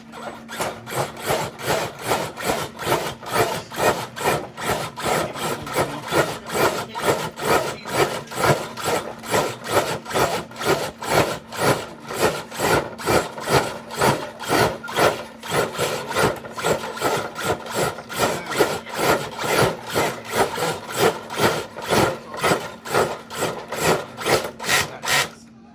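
Radio-controlled truck straining to drag a brick-loaded dead-weight sled, a loud rasping scrape repeating about twice a second over a steady low motor hum. The sound cuts off sharply at the end.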